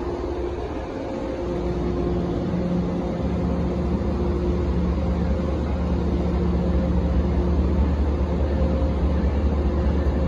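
Train engine running at the platform: a steady low rumble with a constant hum over it, getting a little louder about three seconds in.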